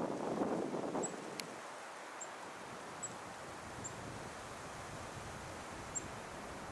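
Strong wind on the microphone with rustling leaves, gusting louder in the first second and then steady. Faint, very high short chirps come about once a second.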